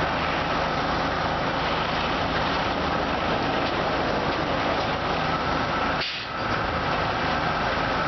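1998 Ceccato Ginga car wash machine running: a steady rushing noise with a thin steady whine above it, dipping briefly about six seconds in.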